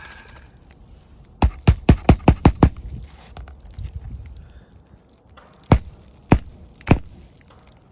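Hammer driving roofing nails through asphalt shingles: a quick run of about seven blows, then three single blows spaced about half a second apart.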